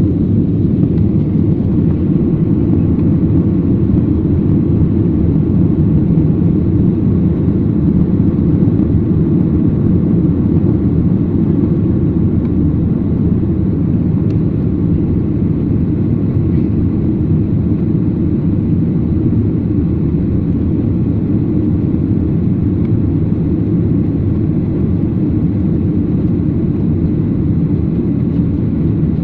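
Steady, loud, low engine and air noise of an airliner during takeoff and climb, heard from inside the cabin, without change for the whole stretch.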